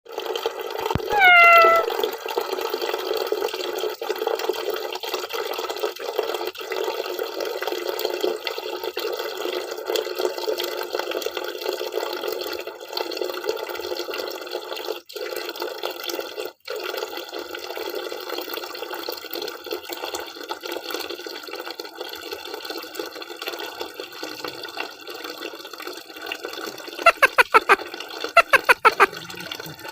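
Tap water running steadily, with a cat giving one falling meow about a second in. Near the end come two quick runs of loud, sharp taps.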